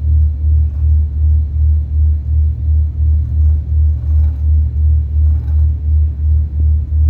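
A passenger ferry's engine running with a deep, steady rumble that pulses evenly about three times a second.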